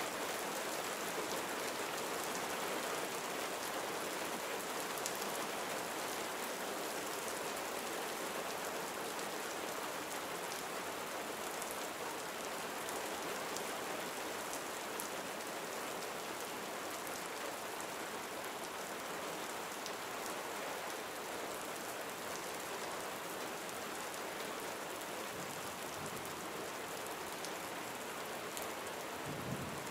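Gentle rain falling steadily, a soft even hiss with faint scattered drop ticks.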